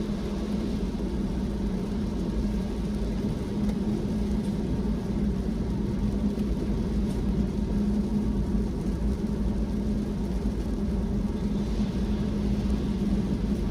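A car driving along at a steady pace: even engine and tyre rumble with a steady low drone.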